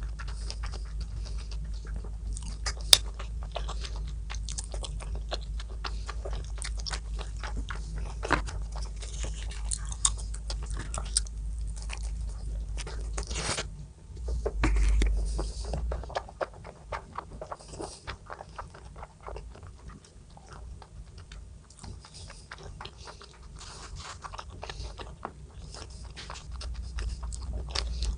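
Close-up eating sounds: a person biting and chewing food, with many small irregular crunching and smacking clicks. A steady low hum underneath cuts out about halfway through.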